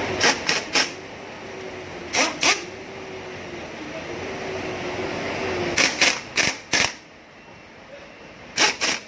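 Sharp knocks in short clusters of two to four, a few seconds apart, over a steady background hum.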